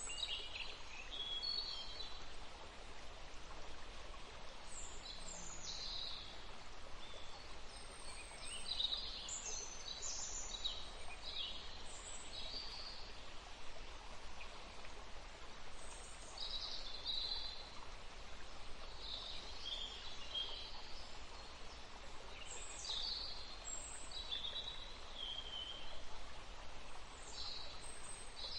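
River water running steadily, with songbirds calling over it: short high chirps and quick phrases every few seconds.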